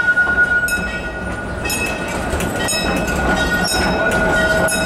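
Amusement-park train's passenger cars rolling along the track: steady rumble with irregular clicks and rattles from the wheels and cars, and a steady high-pitched whine that fades about three seconds in, with a lower whine starting near the end.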